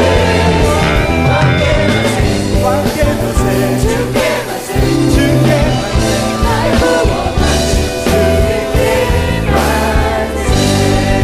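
Worship band playing a contemporary praise song, with voices singing over steady bass and drums.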